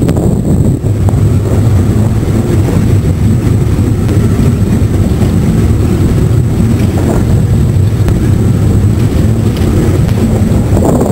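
Outboard motor running steadily with a low hum as the boat moves under way, with wind buffeting the microphone.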